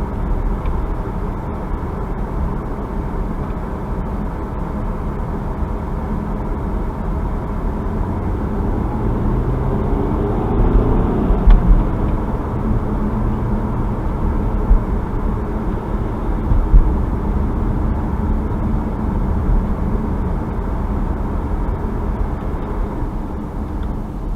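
Car engine and tyre rumble while driving. The engine note rises as the car accelerates about ten seconds in, and a few brief low thumps come through in the middle.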